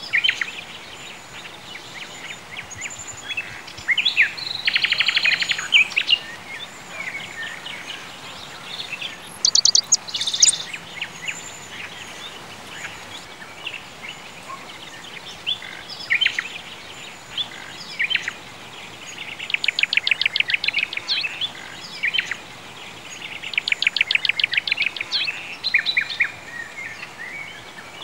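Songbirds singing: scattered chirps, with rapid trills of many quick notes about five seconds in, around twenty seconds in and again near the end, over a faint steady background hiss.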